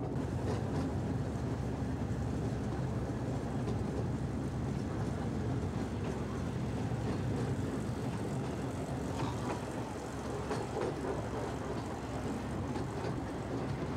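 Miniature railway train running steadily, heard from an open-sided passenger coach: a continuous low rumble of the train on the move.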